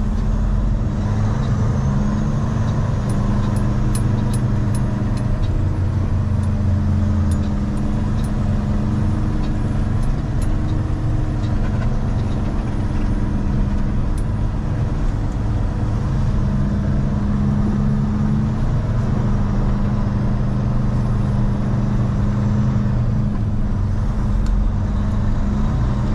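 Heavy truck's diesel engine running with a steady, even drone.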